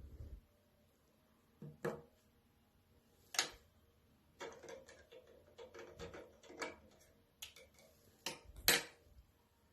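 Scattered light clicks and taps of cups and a plastic syringe being handled on a table, with a run of small clicks in the middle and two sharper knocks, about three and a half and about eight and a half seconds in.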